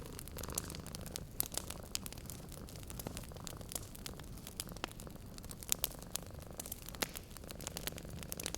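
Wood fire crackling in a fireplace, with many irregular sharp pops and snaps. A cat's low purr runs faintly beneath, clearest near the start and end.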